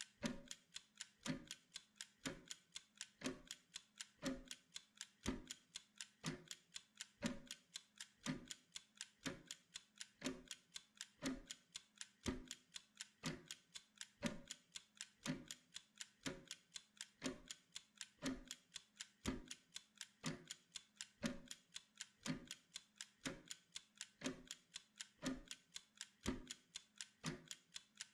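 A clock ticking at a steady, even pace, with sharp regular ticks.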